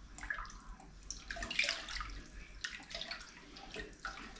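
A litre of cold water being poured into a soup pot of beef stock and softened onions, splashing unevenly, most strongly about a second and a half in.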